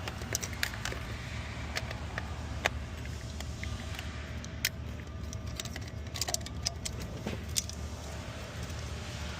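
Irregular sharp metallic clicks and clinks of hand tools and hardware being handled and worked, over a steady low hum.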